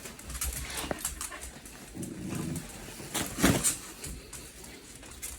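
A dog vocalizing: a low grumble about two seconds in, then a louder short burst about a second later, with light clicks and rustling throughout.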